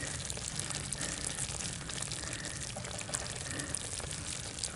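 Barbecue-sauced chicken thighs sizzling in cast iron over wood coals: a steady hiss with fine crackles.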